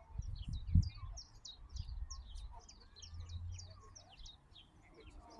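Small songbirds chirping and twittering in quick, continuous runs of short high notes. Underneath is a low rumble, with one loud low thump about a second in.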